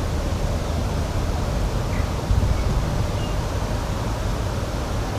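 Outdoor spring nature ambience: a steady low rushing noise, with a few faint, short, high bird chirps about two and three seconds in.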